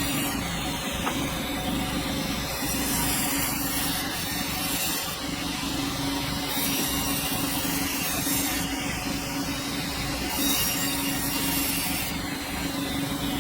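Sawmill running steadily with a constant hum, its blade sawing through a dense hardwood log.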